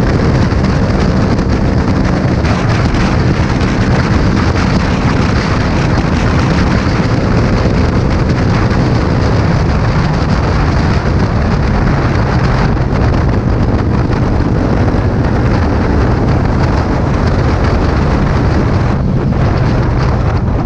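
Loud wind noise buffeting the GoPro's microphone while riding a Kawasaki Z800, with the bike's inline-four engine running steadily underneath. A faint engine tone shows in the first half.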